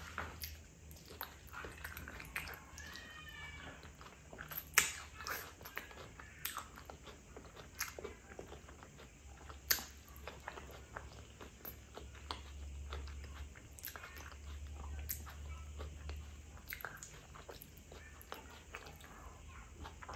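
Close-miked chewing of soft sticky rice, with wet mouth smacks and sharp clicks scattered irregularly throughout.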